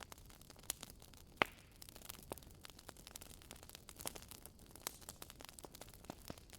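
Wood fire crackling in a wood-burning fireplace: scattered sharp pops and snaps over a soft hiss, the loudest pop about a second and a half in.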